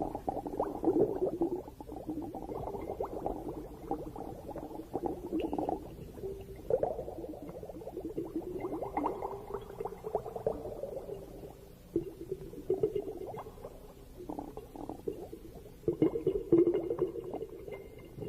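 Bubbles gurgling underwater in irregular bursts of a few seconds each, with quieter stretches between them.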